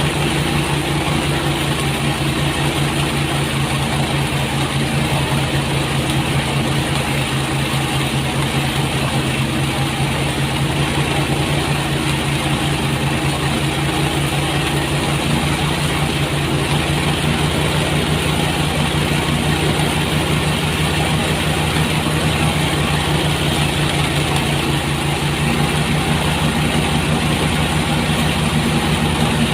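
Motorized rice thresher running steadily: its engine holding an even speed with a rapid, regular pulse while the threshing drum runs.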